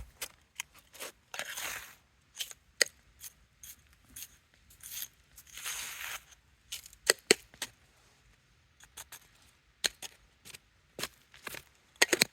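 Small objects being handled: irregular sharp clicks and light taps, with a few short rustling scrapes in between.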